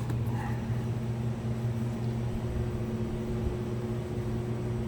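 Shop vac running steadily through the saw adapter, a constant motor hum with airflow hiss.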